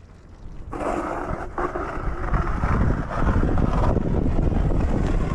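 Snowblower's small gasoline engine starting up under a second in and running rough and loud for about four and a half seconds, then falling off.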